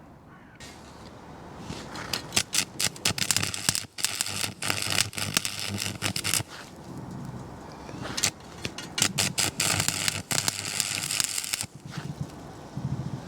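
Electric arc welding on steel: two runs of the arc's sputtering crackle, the first about four seconds long and the second about three, with a short pause between.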